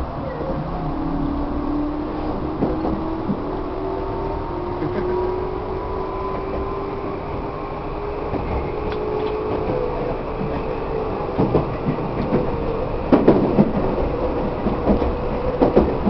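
Tobu 1800 series electric train heard from inside the passenger car. Its motor whine rises steadily in pitch as the train gathers speed. In the second half, sharp rail-joint clicks and knocks come through the running noise.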